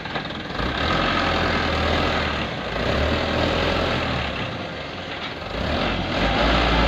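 Diesel engine of a light dump truck running, its level swelling and dipping a few times as it works.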